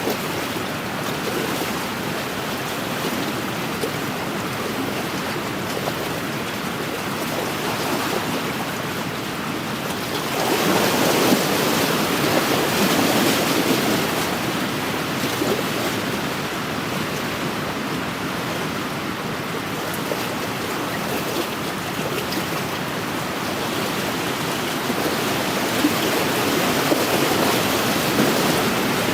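Wind-driven waves washing against a lakeshore, with wind. The sound is a steady rushing that swells louder about ten seconds in for a few seconds, and again near the end.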